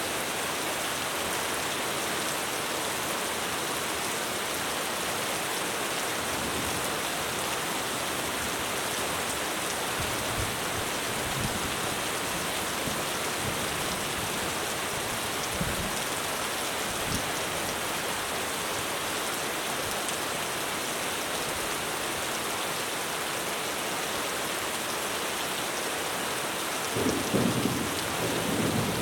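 Heavy rain falling steadily on a roof, with a few faint low thuds of distant thunder and a louder low rumble of thunder near the end.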